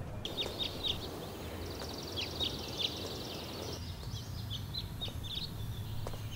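Small birds chirping, many short repeated calls with a rapid trill a couple of seconds in, over a low steady background rumble.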